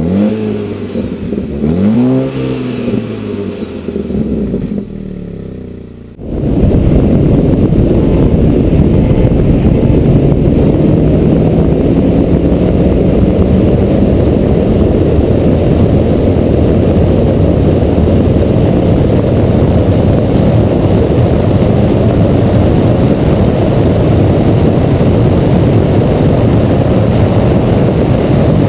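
A turbocharged four-cylinder car engine revved up and down twice in the first few seconds. Then, after an abrupt change about six seconds in, a loud steady rush of wind and road noise at high speed, with the engine's drone rising slowly underneath as the car accelerates.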